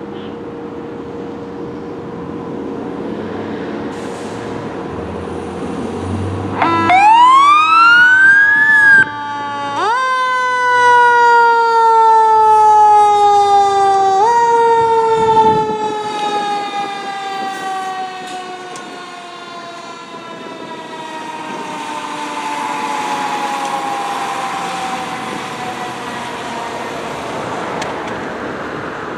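Fire engine responding code 3: its engine runs steadily, then the siren winds up sharply in pitch about seven seconds in. It is pushed up again twice, then slides slowly down in pitch and fades as it winds down.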